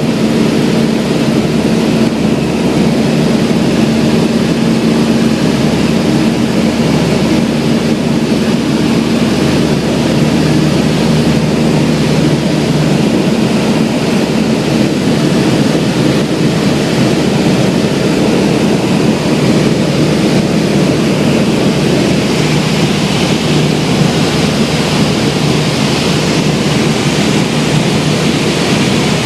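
Cessna 172's piston engine and propeller running steadily and loud. The engine note drops to a lower pitch about ten seconds in.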